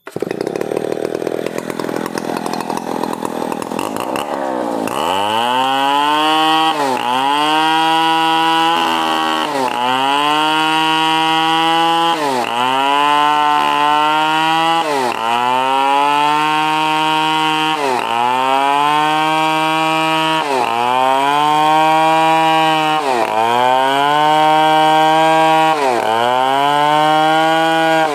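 Stihl 070 two-stroke chainsaw running hard in a cut. For the first four seconds or so it is a rough noise with no clear pitch. After that its pitch drops sharply and climbs back again about every two and a half seconds, as the engine bogs under load and recovers.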